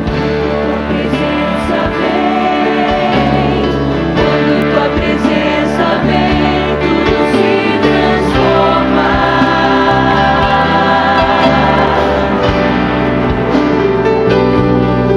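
Gospel worship song: voices singing together in harmony over a band accompaniment.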